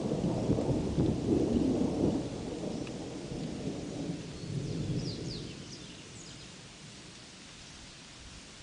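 Thunder rumbling and rolling away, dying out over about six seconds, over a steady hiss of rain. A few faint bird chirps come through as the rumble fades.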